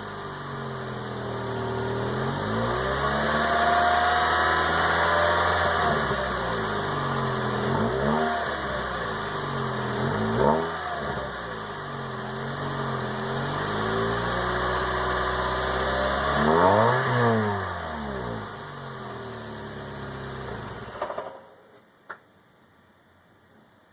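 2006 Scion xB's 1.5-litre four-cylinder engine revved repeatedly through a Thrush Turbo muffler, its pitch rising and falling with several quick throttle blips. The sound cuts off about three seconds before the end, followed by a single click.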